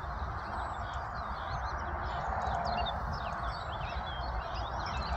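Small birds chirping, many short high calls throughout, over a steady hiss and a low rumble.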